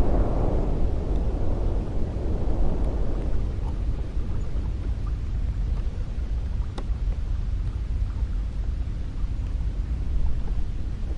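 Cold wind blowing in a low, rumbling rush; a stronger gust dies away in the first few seconds, leaving a steady low drone.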